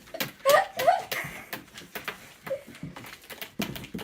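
Irregular sharp clicks and taps, several a second, like typing or claws on a hard surface. A short pitched voice-like sound comes about half a second in.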